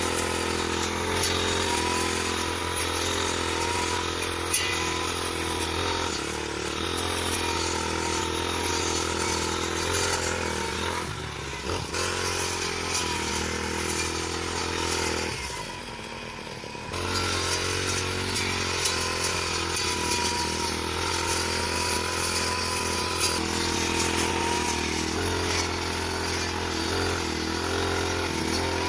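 Grass-cutting machine's small petrol engine running steadily, briefly easing off about halfway through before picking up again.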